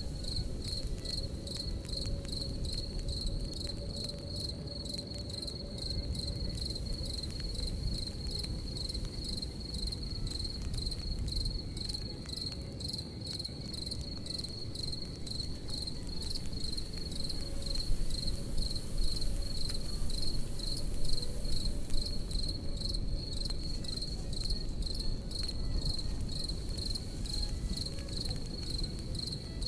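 Crickets chirping in a steady, even rhythm of a few chirps a second, over the low rumble of a campfire with scattered small crackles.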